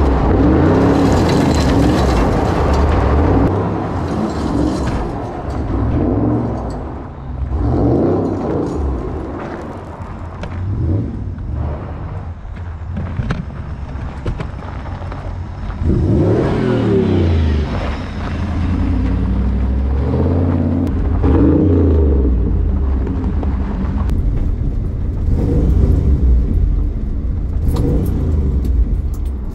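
1994 Pontiac Trans Am's V8 revving hard again and again, its pitch rising and falling, as the car does burnouts with the rear wheels spinning on gravel.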